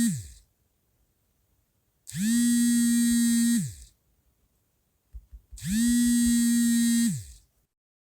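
Cheap phone vibration motor buzzing for an incoming call on a Samsung Galaxy A13 set to silent, in a pattern of on and off pulses. The tail of one buzz is fading at the start, followed by two full buzzes of about a second and a half each, about two seconds apart. Each buzz ends with the pitch sliding down as the motor spins down.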